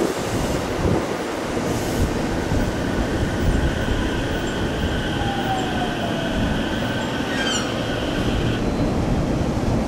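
Five-car 211 and 313 series electric commuter train running past along the platform, a steady rumble of wheels on rail. From about three seconds in until near the end, high steady squealing tones ride over it.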